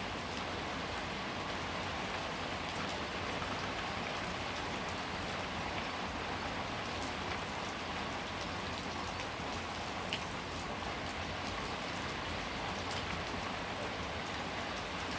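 Steady rain falling, an even hiss of drops with a few sharper drop ticks standing out now and then.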